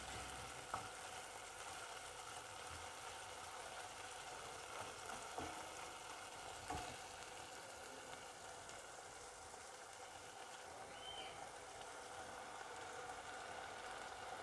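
Chicken pieces frying in oil in a nonstick pan, a steady quiet sizzle, with a few short knocks of a wooden spoon against the pan.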